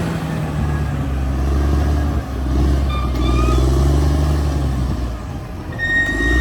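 Caterpillar D6R XL bulldozer's diesel engine running under load, its pitch rising and falling as the load changes. A thin, high squeal comes in near the end.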